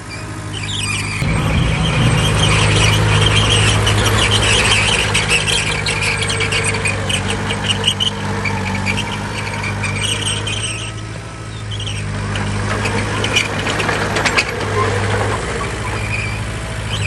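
Heavy diesel earthmoving machine running under load, with a high metallic squeal that comes and goes several times. The engine note rises about a second in and eases off briefly about two-thirds of the way through.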